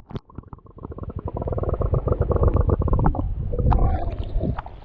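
Hot spring water gurgling and bubbling right at the microphone, a rapid run of bubble pops with a low rumble for about three seconds, then a softer wash of water.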